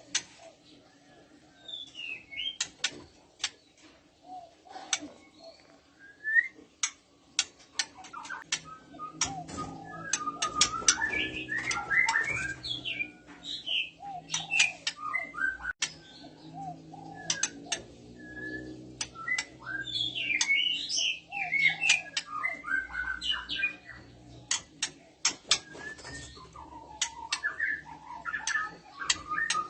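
Female white-rumped shama in breeding condition calling: many sharp clicks scattered throughout, with bursts of quick, jumping whistled and chattering notes that come thickest about a third of the way in, again about two-thirds in, and near the end.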